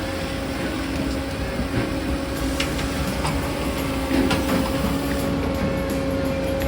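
Firewood processor running: its turbocharged Doosan diesel engine and hydraulics give a steady drone with a constant whine, and a few short knocks from the machine working the wood.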